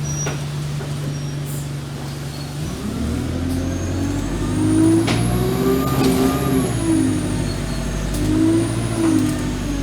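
Alexander Dennis Enviro200 bus engine idling, then pulling away nearly three seconds in. The engine revs climb and drop back in steps as the automatic gearbox shifts up, with a faint high whine rising and falling over the acceleration.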